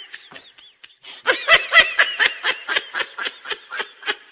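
A person laughing in a rapid run of short, high-pitched giggles, about four to five a second. The laughter fades and breaks off about a second in, then comes back louder.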